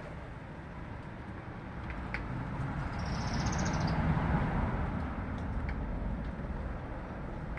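A vehicle passing by, its rumble swelling to a peak about four seconds in and then fading. A short high trill sounds over it about three seconds in.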